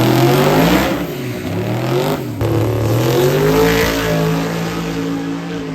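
Drag race car's engine accelerating hard, its pitch climbing and dropping back at gear changes and climbing again, then holding steady as the sound slowly fades away.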